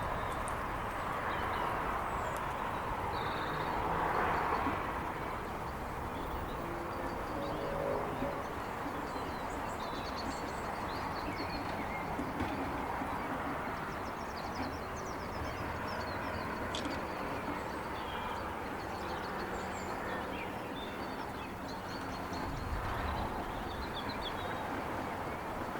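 Suburban evening outdoor ambience: small birds chirping and calling in short high notes throughout, over a steady low wash of distant traffic noise.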